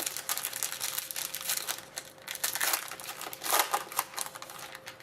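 Foil wrapper of a hockey card pack crinkling and rustling as it is handled, in quick irregular bursts, with a faint steady hum underneath.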